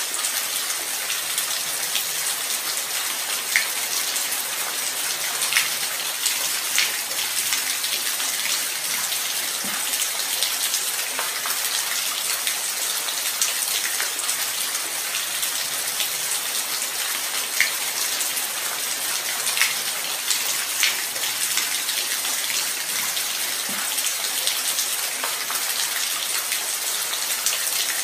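Steady light rain falling, an even hiss with individual drops ticking sharply here and there.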